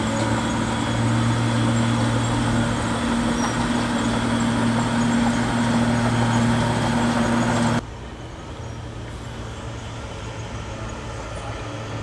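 A bulldozer's heavy diesel engine running steadily with a deep hum. About eight seconds in, the sound drops suddenly to a quieter, steady engine drone.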